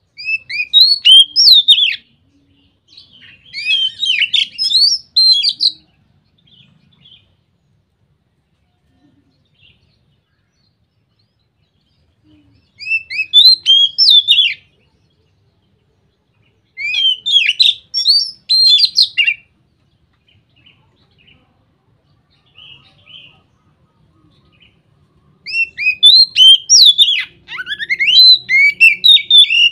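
Oriental magpie-robin (kacer) singing in open, full 'ngeplong' song. It gives five loud phrases of fast, varied whistles and chirps with pauses between them, the last and longest starting near the end.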